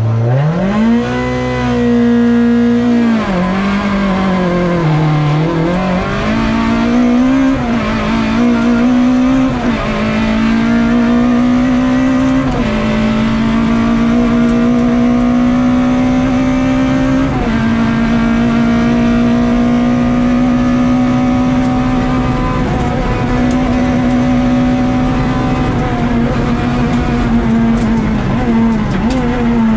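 Citroën Saxo rally car's four-cylinder engine at full effort, heard from inside the cabin. The revs climb sharply at the launch from a standing start, then hold high for long stretches, with a few brief drops in pitch as the driver changes gear.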